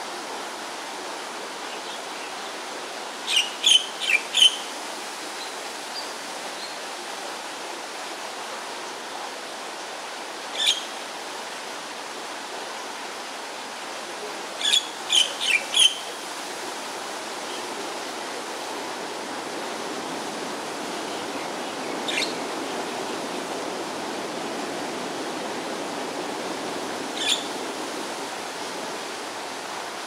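A bird calling in short, sharp, high notes: a quick run of four, a single note, another run of four, then two more single notes spaced out, over a steady rushing noise like flowing canal water.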